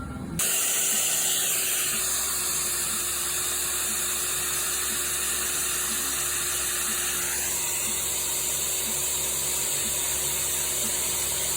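Power drill running steadily while boring holes in steel connection plates: a continuous high hiss over a steady hum, with a slight change in tone about two seconds in and again near the middle.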